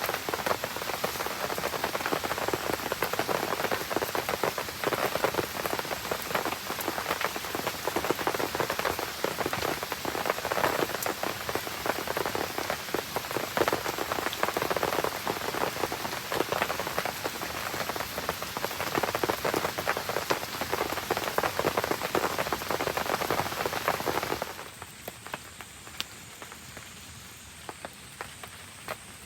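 Heavy rain falling, a dense, even patter of drops. About twenty-four seconds in it cuts suddenly to a much quieter background with scattered sharp clicks.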